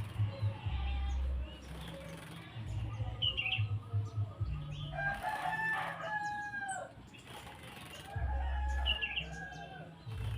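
Cucak jenggot bulbul flapping its wings while being bathed, with several short chirps and gliding call notes, the clearest about halfway through.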